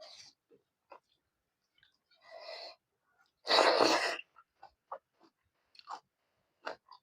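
Close-up mouth sounds of a person eating pork fry with rice: wet chewing and lip smacks at irregular intervals, with a softer breathy rush and then one loud breathy burst about halfway through.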